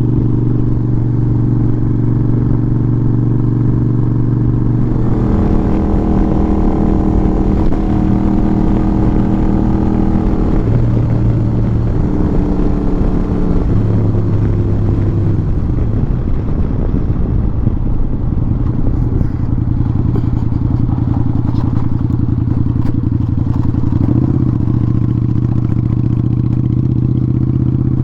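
Motorcycle engine running under way. Its note changes in steps between about five and sixteen seconds in, then holds steady.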